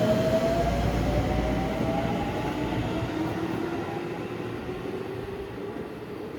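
Electric train accelerating away from the platform. Its motor whine rises slowly in pitch over the rumble of the wheels, and the whole sound fades as the train recedes.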